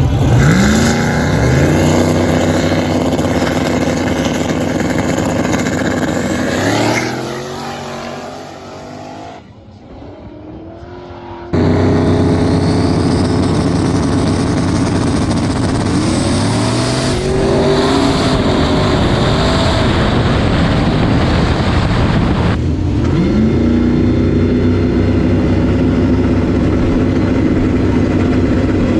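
Turbocharged race truck engine accelerating hard through the gears, its pitch climbing and dropping back at each shift. About a third of the way in the engine fades away, then a loud engine cuts back in and keeps pulling through further shifts.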